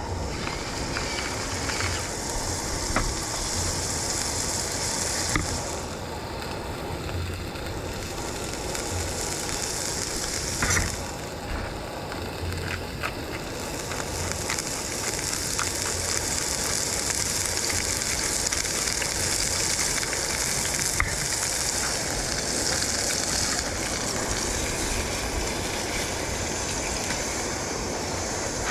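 Food frying in hot oil in a pan, with a steady sizzle and a few sharp pops.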